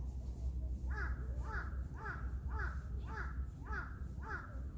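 A crow cawing in a run of seven calls, about two a second, starting about a second in.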